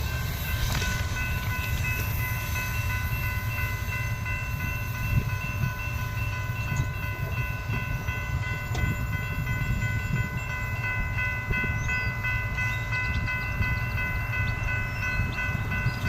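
Freight train cars rolling past with a steady low rumble, over a held high-pitched squeal of several tones from the wheels on the rails.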